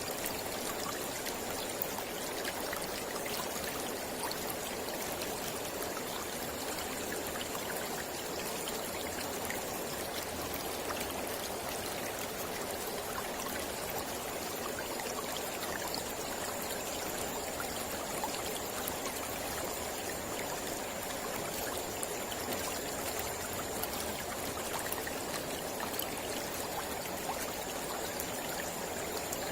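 Mountain river flowing steadily over rocks, an even rush of water with small splashes and trickles throughout. A faint high steady tone sits above it, fading out in the middle and returning later.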